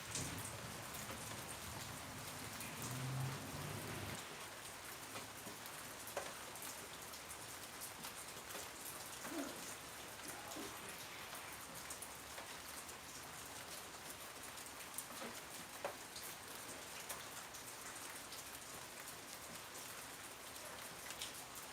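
Steady rain falling on a surface: an even hiss with scattered single drops ticking through it.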